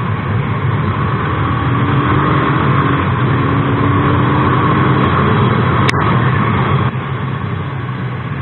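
Motorcycle engine running under way, a steady engine note with road noise as the bike rides along. A single sharp click about six seconds in.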